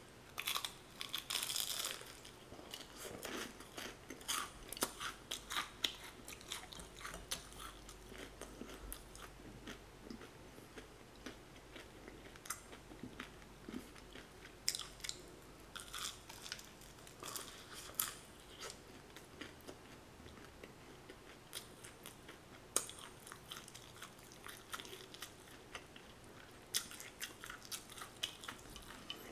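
Close-up biting and chewing of crispy fried chicken, the batter crunching in sharp, irregular crackles, a dense loud run of crunches in the first two seconds, then scattered crunches throughout.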